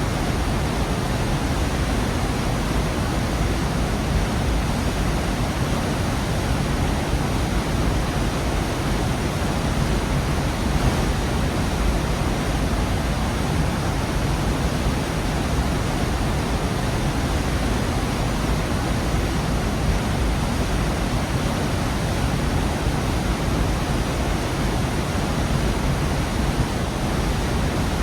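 Waterfall pouring into a gorge: a steady, dense rush of falling water with deep low rumble, unchanging throughout.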